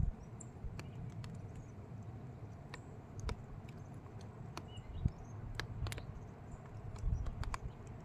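Outdoor nature ambience: irregular sharp clicks and ticks scattered over a low rumble, with a few faint high chirps.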